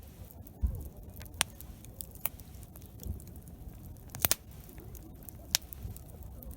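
Wood campfire crackling, with sharp pops every second or so over a low steady rumble.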